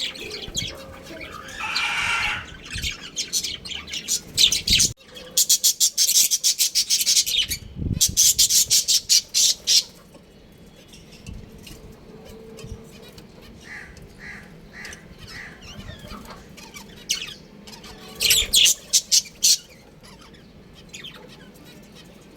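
Budgerigars chirping and chattering. There are two long runs of fast, high chatter, one from about five to ten seconds in and another shortly before the end, with softer chirps between them.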